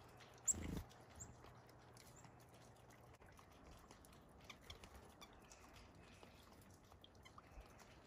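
Near silence at a seed feeder, with faint high chirps and small ticks from small birds feeding, and one brief low thump about half a second in.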